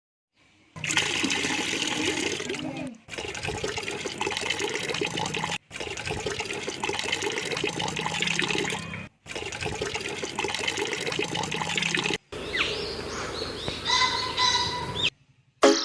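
Running water, a steady rush and trickle, heard in several short clips separated by sudden cuts to silence.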